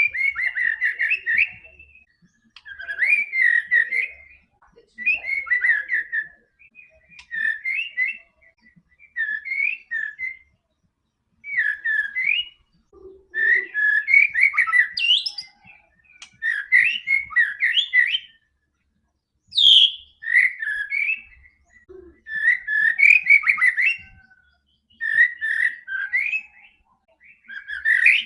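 White-rumped shama (murai batu) singing rich whistled, warbling phrases, each one to two seconds long, with short pauses between them.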